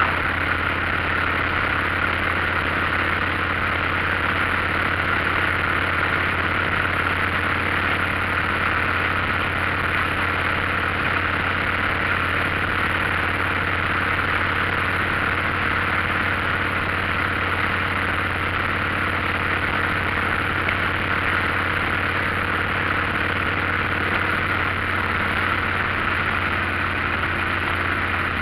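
Motorcycle running at a steady pace, its engine drone mixed with an even rush of road and wind noise, with no gear changes or revving.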